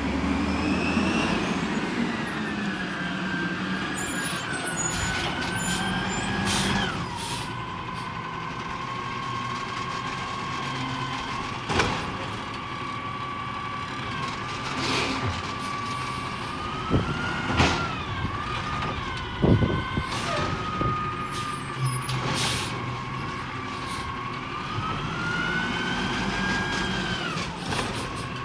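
Peterbilt 320 garbage truck working its hydraulics: the engine runs up and a high hydraulic whine rises and falls as the packing cycle runs, dropping off sharply about seven seconds in and again near the end. Several sharp metal clanks come through the middle.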